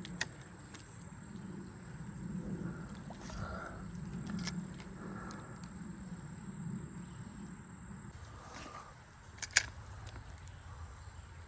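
Faint, steady low rumble of moving creek water, with a few sharp clicks, the loudest about nine and a half seconds in.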